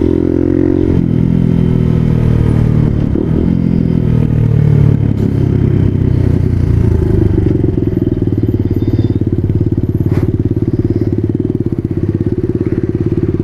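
Motorcycle engine running while the bike is ridden between lanes of traffic. Its note drops about a second in, rises and falls through the middle, then holds steady.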